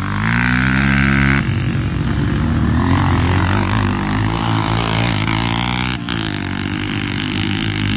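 Dirt bike engines running, with a steady engine note that changes abruptly about one and a half seconds in and again about six seconds in.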